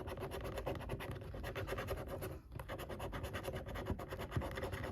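Coin scratching the latex panel of a paper scratchcard: fast, repeated rubbing strokes, with a brief pause about halfway through.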